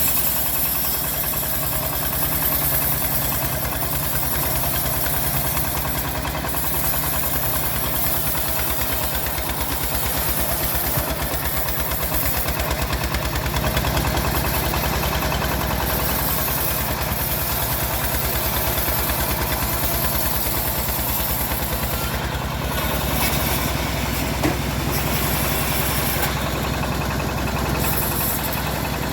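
Engine driving a homemade bandsaw sawmill, running steadily with a fast low pulsing and a constant high hiss over it. A single sharp tick sounds late on.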